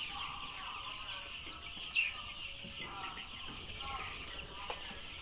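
A flock of young layer chicks calling continuously, a dense mass of high peeps with lower short calls among them; a sharp click about two seconds in.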